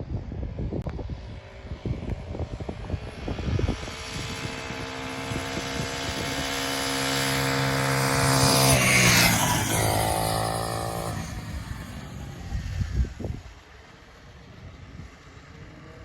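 Small 40cc four-stroke minibike engine running at high revs, approaching and growing louder, passing close about nine seconds in with a drop in pitch, then fading away. Low thumps and wind rumble on the microphone come before and after the pass.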